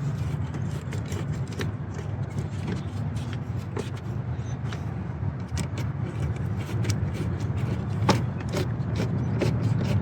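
Scattered small metallic clicks and taps from hand-tool work on a truck's air intake, over a steady low rumble.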